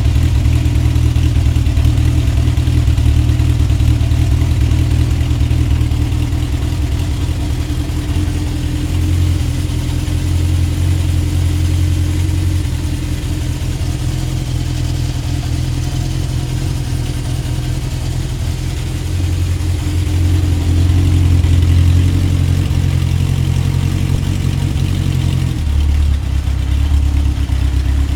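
Honda CB750 Four K4's air-cooled inline-four engine running at idle, its speed shifting slightly a few times.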